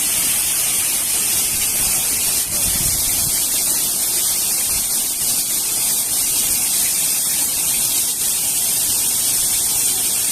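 Steady, loud rush of falling or splashing water, an even hiss with no breaks.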